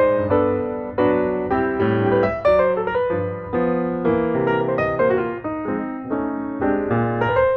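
Background piano music: chords and melody notes struck one after another, each fading away.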